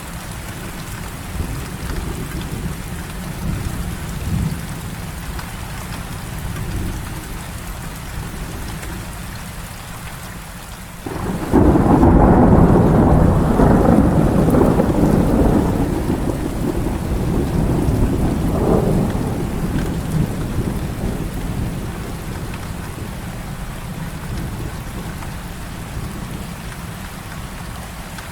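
Heavy rain falling steadily, then a loud rolling thunder rumble breaks in about halfway through, swells, and fades away over several seconds while the rain goes on.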